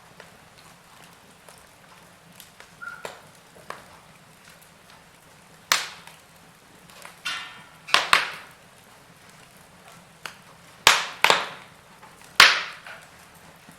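Logs burning in a fireplace, crackling with irregular sharp pops and snaps over a low steady hiss, the loudest pops in the second half.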